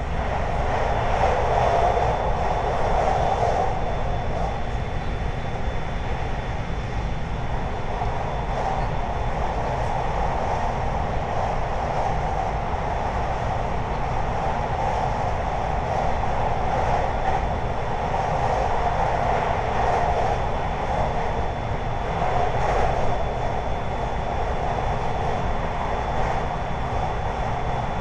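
JR 521 series electric multiple unit running at speed, heard from inside the car: a steady rumble of wheels and track with gentle swells, and a faint steady high whine.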